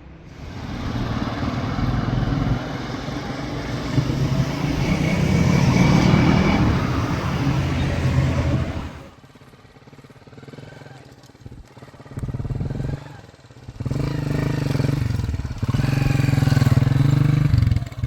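Motorcycle engine running loudly for about nine seconds, then revved in several short bursts with quieter gaps between them.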